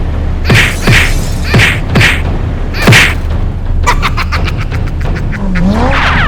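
Cartoon sound effects over a steady background music track: five hard hits, each with a quick drop in pitch, then a fast run of clicks that slows down, and a sliding tone near the end.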